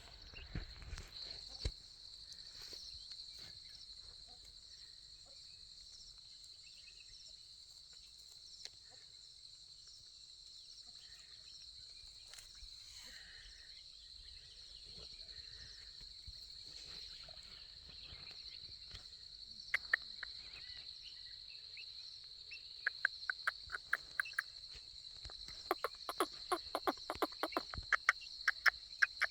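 Steady high-pitched insect chorus trilling without a break. Near the end, rapid runs of short, sharp chirps break in over it.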